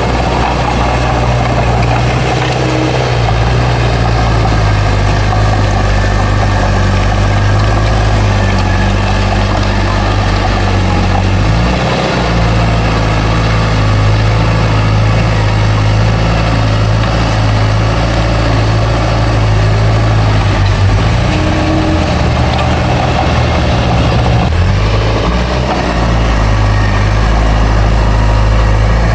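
Bulldozer's diesel engine running steadily under work, its engine note shifting briefly a few times.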